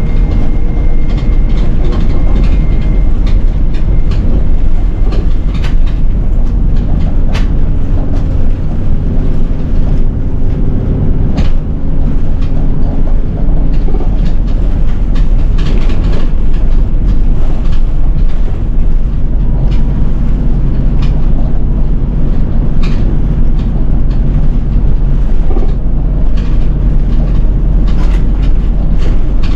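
City bus heard from inside while under way: steady diesel engine and road noise with frequent short rattles and clicks from the bodywork and fittings.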